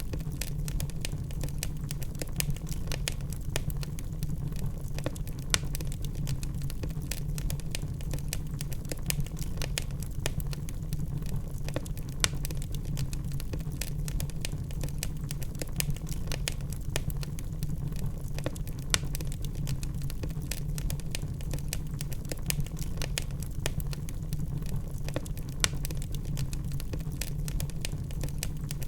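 Wood logs burning in a fireplace: dense, irregular crackling with a few louder pops over a steady low rumble of the fire.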